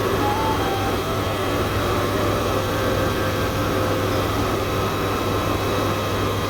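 Helicopter in flight heard from inside the cabin: a steady drone of engine and rotor, with a low hum and thin steady tones over it.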